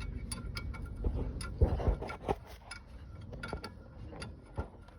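Metal hand tools clicking and clinking against truck parts in a quick, uneven run of about three to four sharp ticks a second, some with a brief metallic ring, over a low background rumble.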